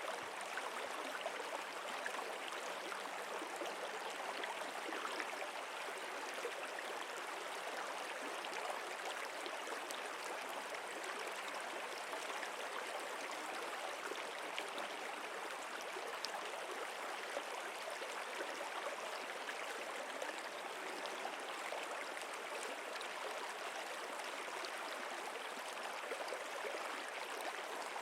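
Stream water flowing steadily, an even rush and gurgle with no breaks.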